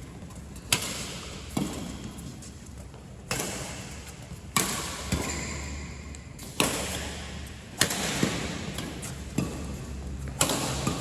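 Pickleball rally: sharp pops of paddles striking the hollow plastic ball, about ten hits spaced irregularly from half a second to two seconds apart.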